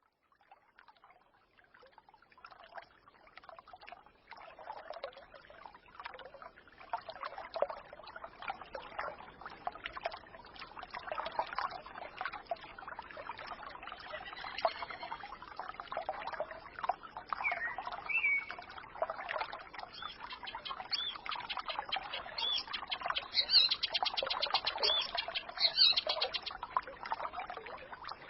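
A forest stream babbling and gurgling, fading in over the first few seconds. Small songbirds chirp and twitter over it, more often near the end.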